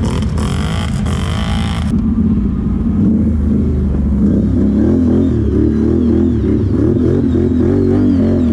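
Quad bike (ATV) engine revving up and down, cut off abruptly about two seconds in. What follows is duller, with steady deep bass notes and wavering tones, the start of an electronic music track laid over the footage.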